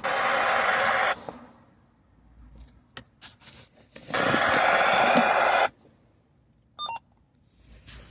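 Scanner radio receiving two bursts of static hiss with no voice, as transmissions key up without speech; the first lasts about a second, the second about a second and a half. A short beep tone sounds near the end.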